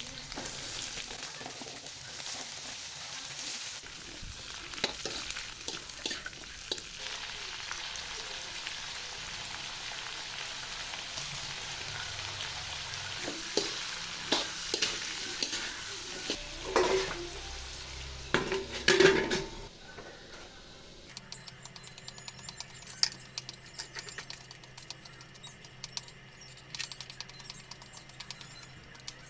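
Food sizzling in a frying pan while a spatula stirs and scrapes, with a few louder knocks against the pan about 17 and 19 seconds in. From about 21 seconds in the sizzle stops abruptly and gives way to quieter, scattered clicks and taps.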